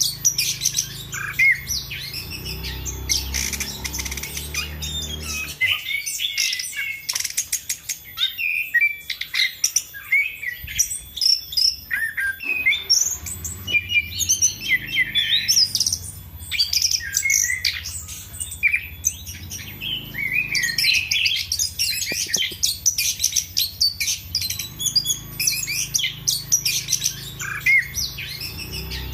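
Chestnut-capped thrush (anis kembang) in full song: a rapid, varied stream of high chirps, whistles and trills with short pauses. A low hum comes and goes underneath.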